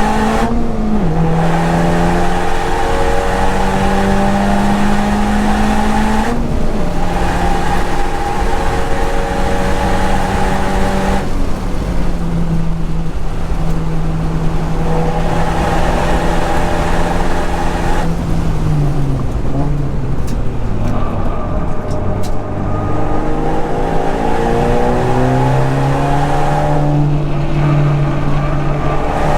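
A modified Honda Civic Type R's turbocharged four-cylinder engine pulling hard on track. Its pitch drops sharply at several gear changes, sinks low for a slower stretch about two-thirds through, and then climbs again as the car accelerates.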